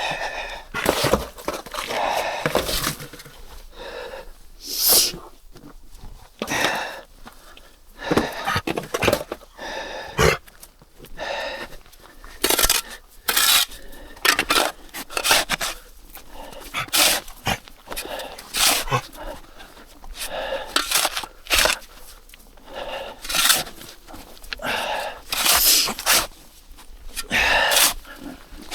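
Snow being cleared with a shovel: a run of short, rough scraping strokes at an irregular pace, roughly one a second.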